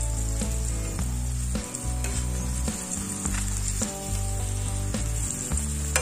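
Masala-filled pappad rolls frying in hot oil in a metal pan, a steady sizzle, with light scrapes and clinks of a metal slotted spatula as the pieces are turned over.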